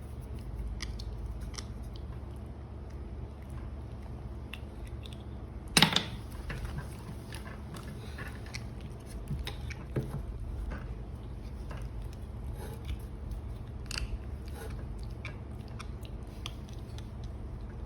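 Baby monkey feeding, with scattered small clicking and smacking mouth sounds as it chews and sucks. One sharper knock comes about six seconds in, over a steady low hum.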